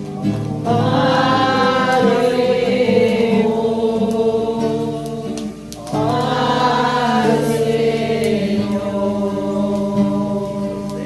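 A church group singing a hymn together in two long, held phrases, one beginning just under a second in and the next about six seconds in, over a steady sustained accompaniment.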